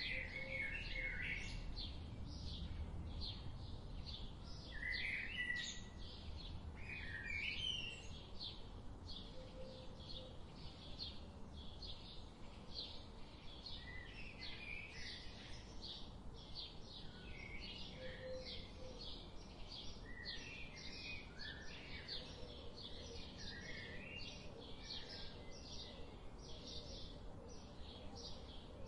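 Forest birds chirping, with short scattered calls, over a high, steady pulsing call that repeats about two or three times a second throughout. A low rumble sits underneath and is strongest in the first few seconds.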